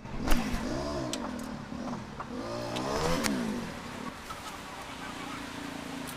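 2008 Suzuki Alto engine revved twice, its pitch rising and falling back each time, then settling to a steady idle. The engine is misfiring on its number one cylinder.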